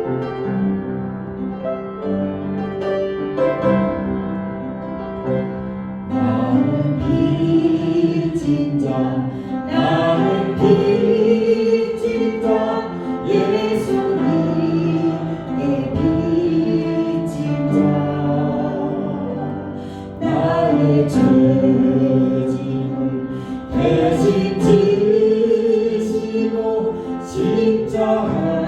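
A congregation singing a worship song together with a keyboard accompaniment; the singing grows fuller about six seconds in.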